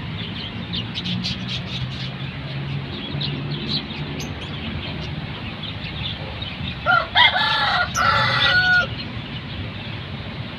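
A rooster crows once, about two seconds long, starting about seven seconds in; it is the loudest sound. Before it come scattered short, high chirps, likely the lovebird, over a steady low hum.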